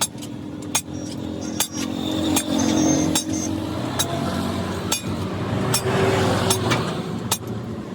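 Steady hammer blows on metal, about ten sharp clinking strikes at a regular pace a little under one a second, as a stuck truck axle is worked on. A low engine hum runs underneath.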